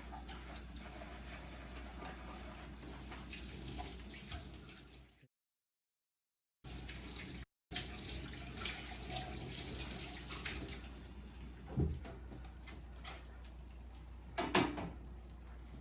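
Soft, steady sound of water, broken twice by dead silence where the footage is cut. Two brief knocks come near the end.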